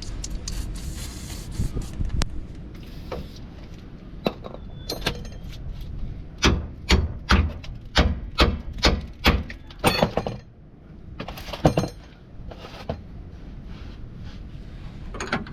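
Hand tools working on a rusty rear sway bar link on a 1999 GMC Yukon: a run of about ten sharp metallic strokes, about two a second, starting about six seconds in, then a couple more a little later.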